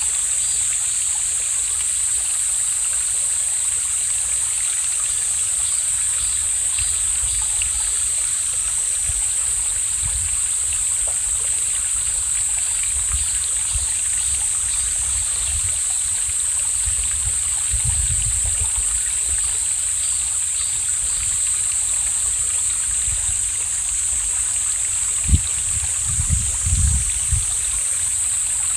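Mountain valley stream flowing steadily, with a few low thumps near the end.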